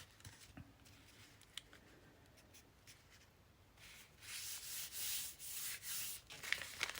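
Paper pieces handled by hand on a work surface: a few light clicks, then from about four seconds in a run of scratchy rubbing and sliding in uneven swells.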